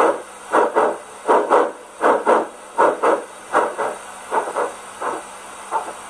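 Recorded steam-locomotive chuffing from the Rivarossi H0 Big Boy model's sound decoder, played through its small onboard speaker, with no deep bass. Exhaust beats come in pairs, about three beats a second, as the engine runs on the test stand's rollers.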